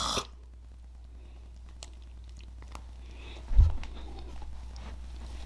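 A person chewing a mouthful of mac and cheese, with soft mouth clicks and a dull low thump about three and a half seconds in.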